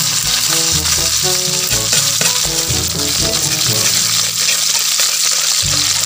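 Earthworms deep-frying in hot oil in a steel wok, sizzling steadily while a metal ladle stirs through them. Background music with a bass line and melody notes plays along.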